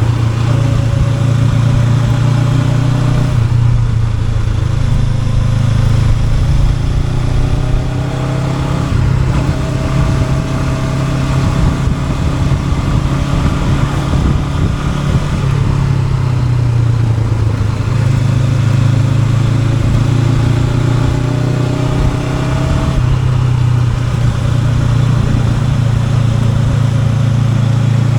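Honda NX500's parallel-twin engine running under way, its pitch rising and dropping back several times as it accelerates and eases off.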